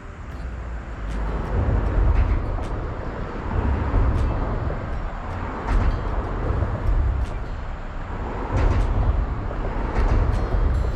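Wind buffeting the microphone outdoors: a loud low rumble that picks up about a second in and comes in gusts.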